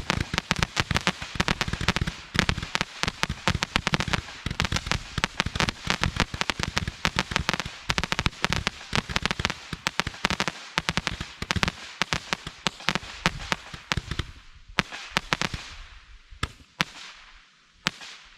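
Consumer aerial firework going off in a dense, rapid string of cracks and pops for about fourteen seconds, then thinning to a few scattered pops and dying away without a big finale.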